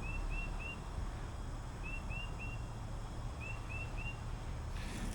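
A bird calling: a phrase of three quick, high chirps, repeated three times about every second and a half, over a low steady background rumble.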